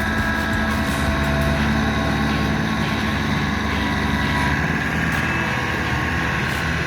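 Kubota LX3310 compact tractor's diesel engine running steadily while the tractor moves a large square bale on its front loader.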